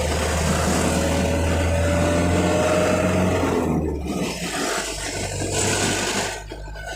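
A vehicle engine running close by in slow traffic: a steady low hum with a faint, slowly rising whine above it. The hum drops away about four seconds in, leaving quieter road noise.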